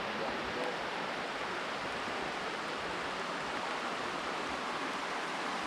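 Steady rush of river water, the Kings River running high over what is normally a waterfall drop.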